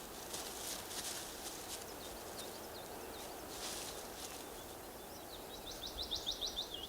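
Bird calls over a steady forest hiss: scattered thin high chirps, then near the end a rapid series of short, high, falling calls, about eight a second.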